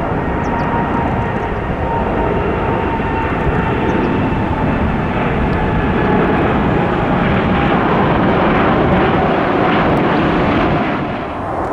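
Jet airliner taking off: a loud engine roar with a faint whine in it, building to a peak late on and then falling away just before the end.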